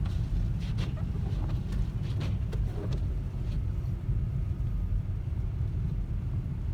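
Steady low rumble of a car driving on a snow-covered road, heard from inside the cabin, with a few faint ticks in the first half.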